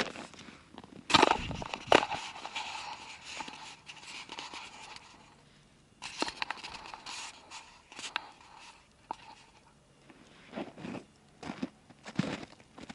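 Dry wood and brush crunching and snapping, with two sharp snaps about one and two seconds in, crackly rustling after them and scattered softer crunches near the end.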